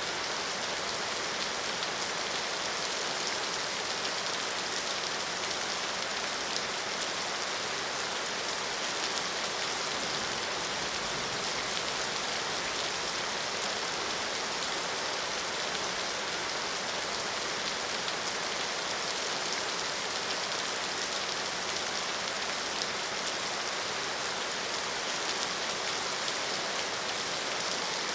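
Steady rain falling, an even, unbroken hiss of many small drop hits with no change in strength.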